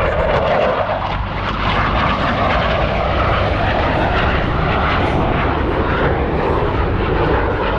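Loud, steady jet engine noise from US Navy Blue Angels F/A-18 Super Hornets in flight.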